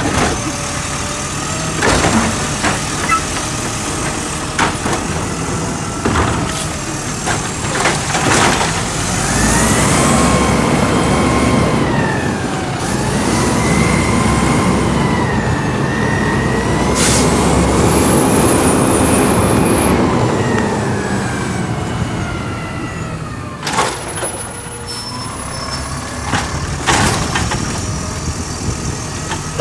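Garbage truck collecting: sharp bangs and clanks of a can being knocked against the hopper. In the middle the truck's engine speeds up with a rising whine, holds for about ten seconds, and drops back. More bangs follow near the end.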